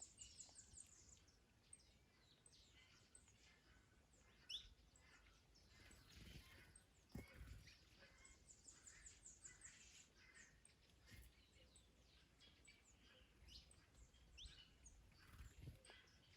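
Faint garden birdsong from several small birds: scattered chirps and short whistled notes, with a rapid high trill at the start and again about halfway through, over a low background rumble.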